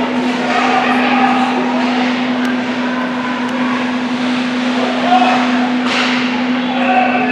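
Ice hockey game in a rink: a steady low hum under a mix of scattered voices and scraping, with a sharp knock about six seconds in.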